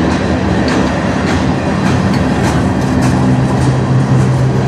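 Freight train cars (gondolas and centerbeam flatcars) rolling past close by: a loud, steady rumble of steel wheels on the rails with a regular clickety-clack, about two clicks a second.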